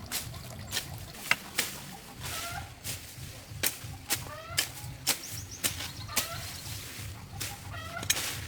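Chickens clucking in short calls, over irregular sharp knocks or taps about every half second to second, the knocks being the loudest sounds.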